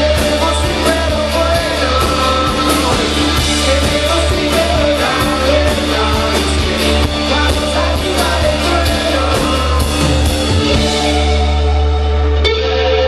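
A rock band playing live, with guitars, bass, drums and a singer. Near the end the drumming drops away and a sustained guitar note rings on.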